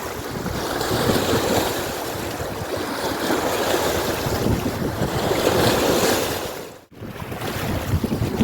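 Wind buffeting the microphone, a loud rumbling rush that swells and falls, with water noise mixed in. It drops out abruptly for a moment about seven seconds in, then returns.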